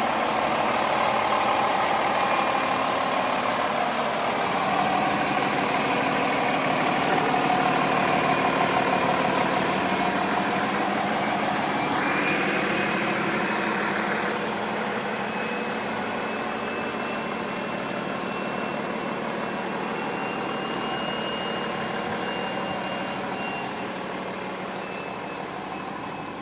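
The diesel engine of a 2013 Pierce Impel fire engine idling steadily, running smooth as new.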